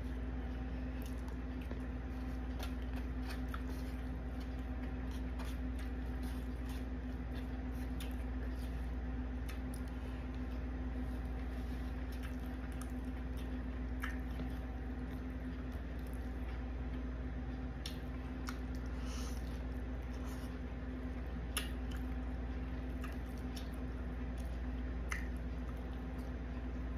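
Close-up eating sounds: wet chewing and squishing, with scattered short clicks of a plastic fork picking at food in a foam takeout container, over a steady low hum.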